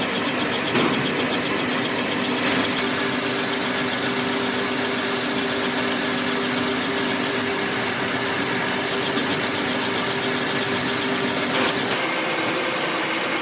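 A machine running steadily with a hum and a high hiss, with a few light knocks. The hum changes pitch about twelve seconds in.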